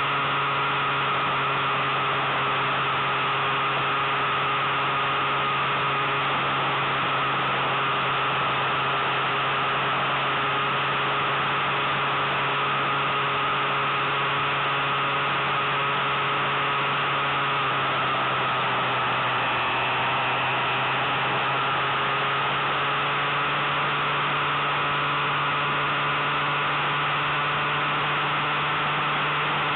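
Suzuki Bandit 1200 motorcycle's inline-four engine droning steadily at cruising speed under heavy wind rush. The engine note shifts slightly in pitch about two-thirds of the way through.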